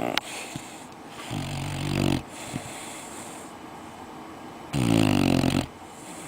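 Red-nose pit bull puppy snoring in his sleep: two snores of about a second each, roughly three seconds apart, the second one louder, with quieter breathing between.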